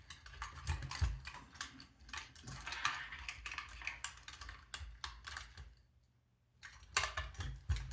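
Irregular small plastic clicks and rattles of wires being pressed one at a time into plastic cable clips, with a short pause about six seconds in.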